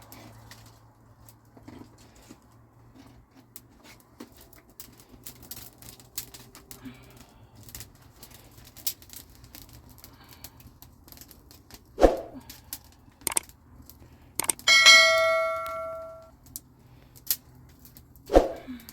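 A metal object struck once, ringing with several clear tones that fade over about a second and a half. Around it are scattered light clicks and two dull knocks, one a few seconds before the ring and one near the end.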